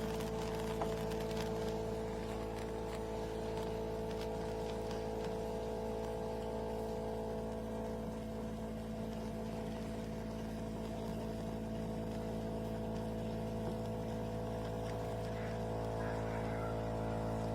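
De'Longhi Rivelia bean-to-cup espresso machine running steadily while it makes a milk drink: its pump gives a constant hum made of several steady tones.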